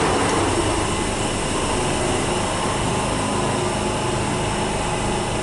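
Steady, loud mechanical drone of a London Underground platform, with a Waterloo & City line train standing at the platform before it departs.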